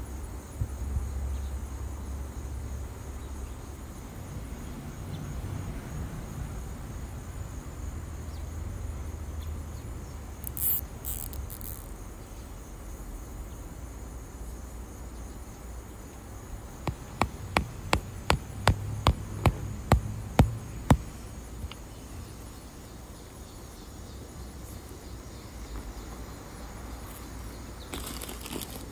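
A mallet knocking landscape staples into the ground to pin down bird netting: about a dozen sharp knocks in quick succession, roughly three a second, about two-thirds of the way through, after a stretch of low handling and rustling noise. Faint insect chirring runs underneath.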